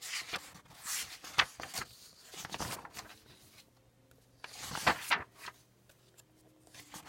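Paper rustling in several short bursts as book pages are handled and turned.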